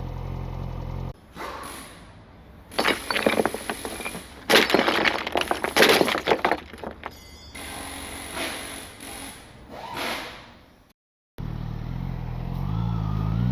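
Several bursts of crashing, clattering impacts with scraping, then after a short dropout a motorcycle engine running and revving up near the end.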